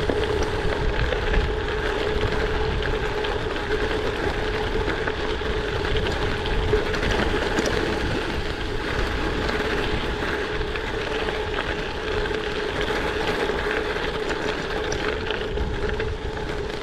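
Steady ride noise from a gravel bike rolling over washboard gravel road: constant tyre rumble and rattle with wind noise on the action camera's microphone, and a steady hum running underneath.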